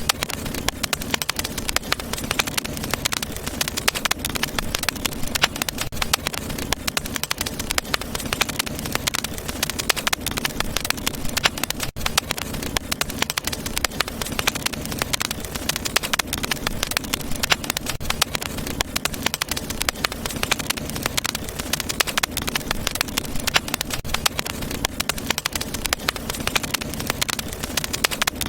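Wood fire crackling steadily in a fireplace: a dense run of quick small pops and snaps over a low rumble of flame.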